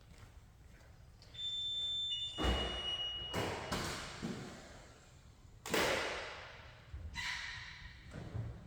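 Two steady high electronic tones together for about two seconds, like a car's warning chime, followed by four or five dull thumps.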